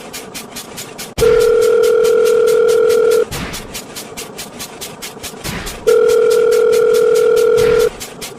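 Telephone ringing tone played twice, each a steady tone about two seconds long, over a fast, even ticking of roughly eight clicks a second.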